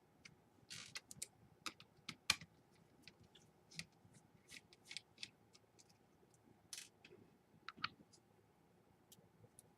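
Faint, irregular clicks and short scrapes of small laptop parts being handled during disassembly or reassembly, with a couple of longer scrapes near the start and about two-thirds of the way in.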